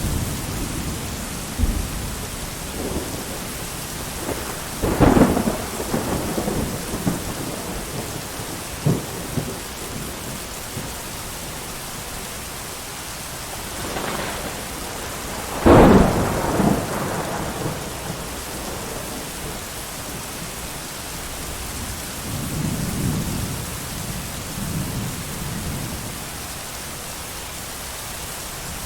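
Steady heavy rain with thunder: a sharp thunderclap about five seconds in, a louder one about sixteen seconds in, and lower rolling rumbles later on.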